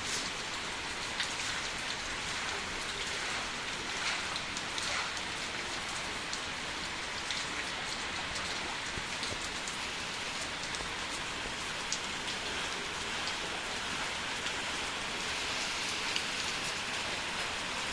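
Steady heavy rain falling, with many small drops pattering and ticking on surfaces.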